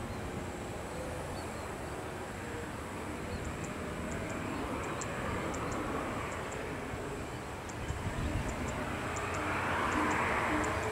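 Jet engines of a landing Boeing airliner, a steady rushing noise that swells louder near the end.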